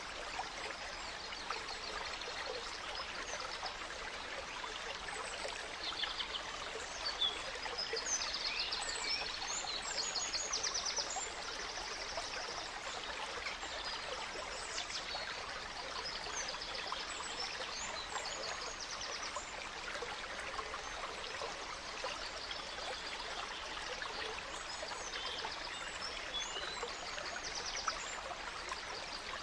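A gentle stream running steadily, with several songbirds singing over it in short chirps and rapid high trills, busiest in the middle of the stretch.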